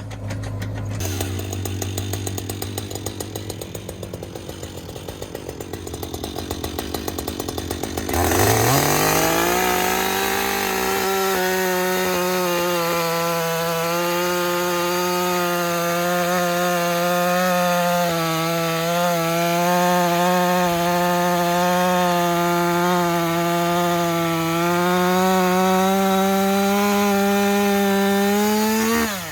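A low engine idle for the first eight seconds or so, then a two-stroke chainsaw is opened up to full throttle and held at high speed for about twenty seconds, its pitch wavering slightly as it saws through the log. The throttle is released near the end.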